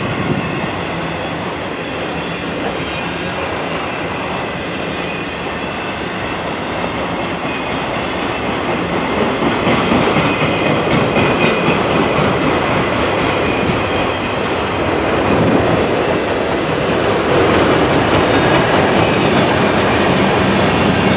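A long CN freight train's cars rolling past close by on the rails, a steady loud rumble that grows louder about nine seconds in.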